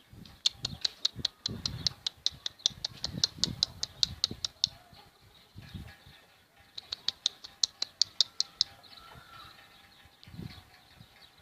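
Birds calling: two runs of rapid, sharp high chirps at about five or six a second, the first lasting some four seconds and the second about two, over scattered low, soft sounds.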